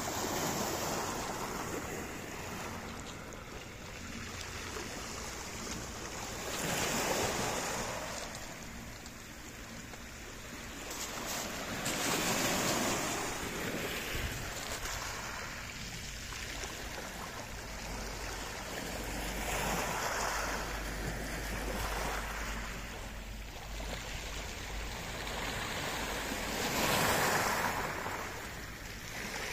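Sea waves washing in and breaking on the shore, a steady rush of water that swells and ebbs every several seconds.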